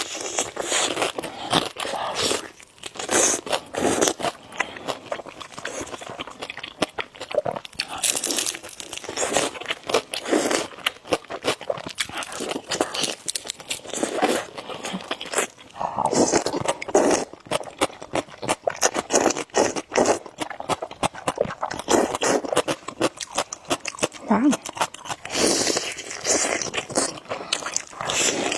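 Close-up crunchy biting and chewing of crisp food, a steady run of sharp crunches and crackles.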